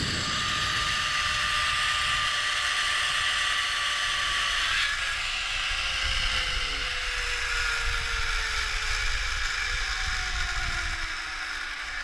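Zipline trolley pulleys running along the steel cable with a steady whir whose pitch falls slowly as the rider loses speed, over low wind rumble.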